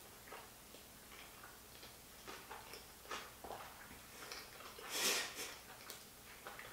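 Close-miked chewing of a large mouthful of sushi roll: soft, wet mouth clicks and smacks scattered throughout, with one louder, brief rush of noise about five seconds in.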